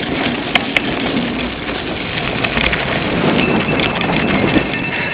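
Cyclocross bike ridden hard over rough ground: steady tyre and frame rattle with wind on the microphone, two sharp clicks just under a second in, and a thin steady whine joining about three and a half seconds in.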